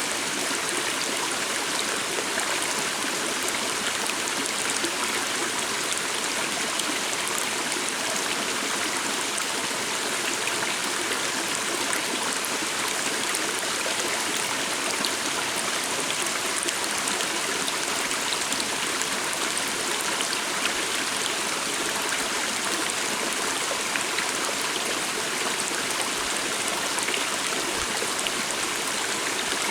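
A small stream running steadily over stones, an even, unbroken rush of water.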